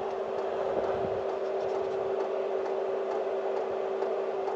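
Steady mechanical hum with one constant tone.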